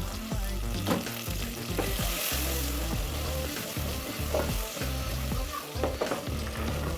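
Food sizzling in a frying pan as it is stirred, with scrapes and ticks of the utensil against the pan, over background music with a steady bass.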